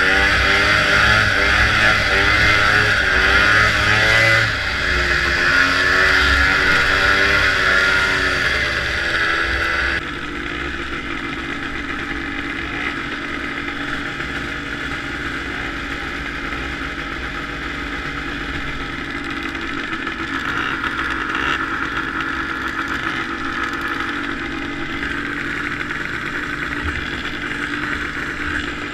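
Vintage two-stroke snowmobile engine running hard under varying throttle, heard from the rider's helmet camera with heavy wind and track noise. About ten seconds in it drops suddenly to a lower, steadier drone.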